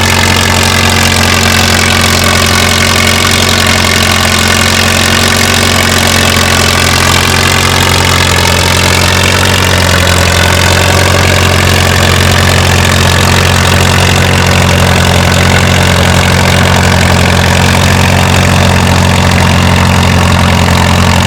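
Antique farm tractor engine running steadily and loudly.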